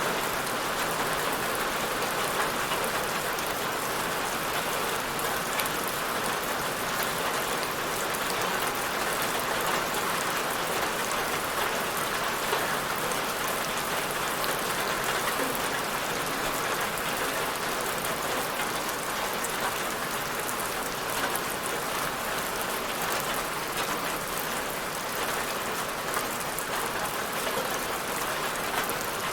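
Steady rain falling on a surface, an even hiss of many fine drops with small scattered ticks.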